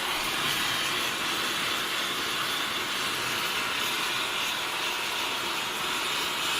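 A steady, even hiss that runs without a break.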